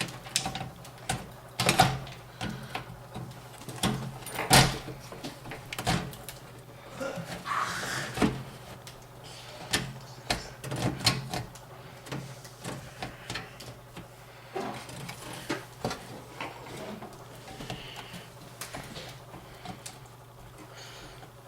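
Irregular light knocks, taps and scrapes as a motherboard is handled and set onto the standoffs inside a computer case, over a faint steady low hum.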